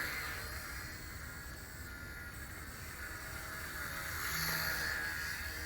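Wltoys V977 micro RC collective-pitch helicopter in flight: the brushless motor and rotor give a steady high whine that sags a little in pitch and climbs back near the end.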